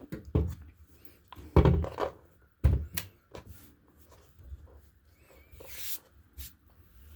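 A few knocks and thumps of objects being handled and set down on a hard surface, bunched in the first three seconds, then a short rustle.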